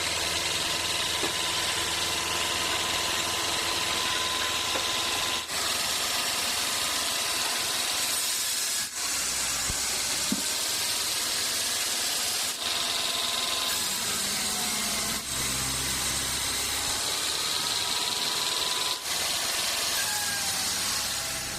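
Portable sawmill running, its engine driving the blade through a log: a steady loud mechanical noise with a high whine, broken by several brief dips.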